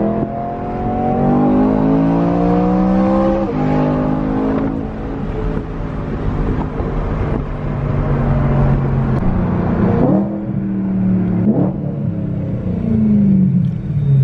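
Car engine accelerating through the gears: its pitch climbs and drops at each upshift, twice in the first five seconds, then holds steadier with a few quick rises and falls near the end.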